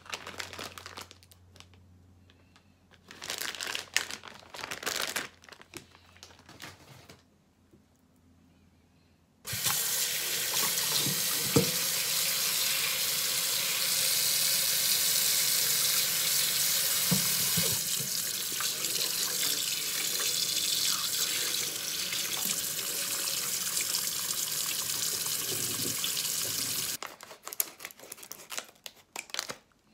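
Kitchen tap running steadily into a sink, switched on about a third of the way in and shut off near the end; a few short rustles of handling come before it.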